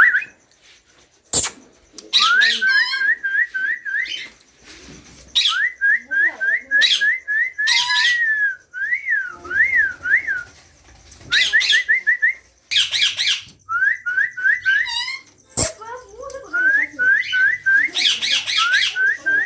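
Green ringneck (rose-ringed) parakeet chicks calling at feeding time. Runs of short rising chirps, about five a second, are broken by harsh raspy squawks, with a couple of sharp clicks.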